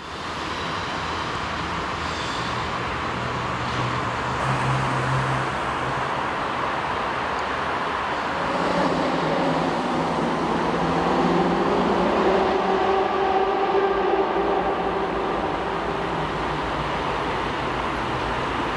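2M62U twin-section diesel locomotive running light with its two-stroke 14D40 diesel engines working. About eight seconds in, a stronger, multi-toned engine note builds, loudest a few seconds later, then eases back to a steady run.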